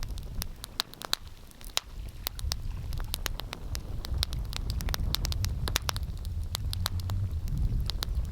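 Fire in a fireplace crackling, with many sharp irregular pops over a steady low rumble.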